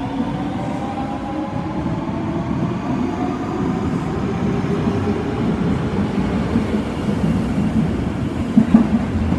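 Osaka Metro Tanimachi Line subway train running. Its motor whine rises in pitch as it gathers speed and fades out in the first second or so, leaving a steady rumble of the running train with a brief louder bump near the end.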